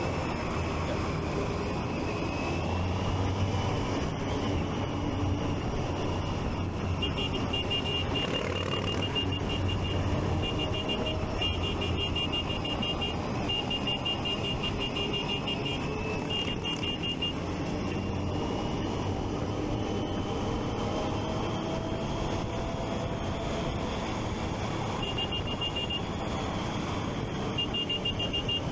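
Motorcycle engine running under way, with rising and falling engine pitch over steady riding noise; the rider's Triumph Street Triple 675 inline three-cylinder. A rapid high electronic beeping sounds in stretches through the middle and again near the end.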